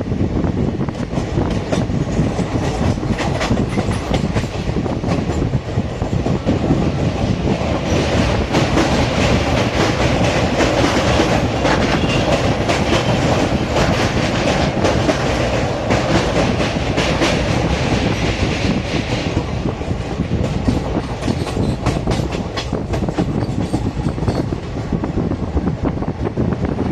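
Begampura Express passenger train running at speed, its wheels clicking steadily over the rail joints under a continuous rumble. A harsher, brighter rattle rises about a third of the way in and eases off again about two-thirds of the way through.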